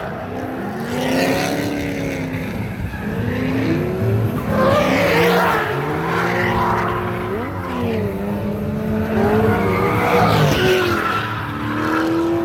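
Drift cars' engines revving up and down at high load, more than one car at once, with tires squealing and skidding as they slide through the course; the tire noise swells twice, about halfway through and near the end.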